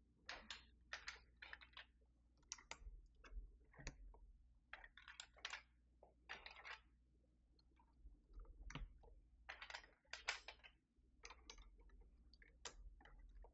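Faint, irregular small plastic clicks and rattles as keycaps are handled and pressed onto the switches of a Keychron V6 Max mechanical keyboard.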